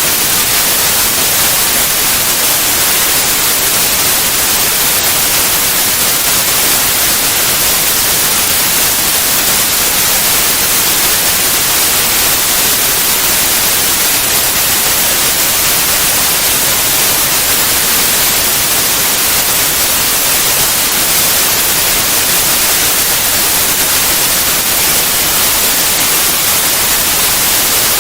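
Synthetic white noise: a loud, steady hiss, even across the whole range and brightest in the highs, with no change at all.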